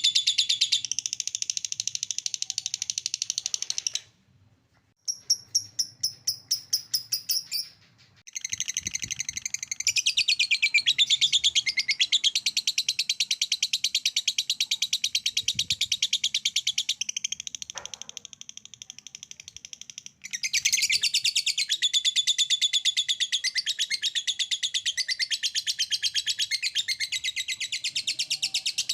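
Lovebirds 'ngekek' chattering: long, rapid, high-pitched trills of repeated notes. They break off briefly near 4 s, 8 s and 20 s, with a run of separate chirps at about five a second around 5 to 7 s.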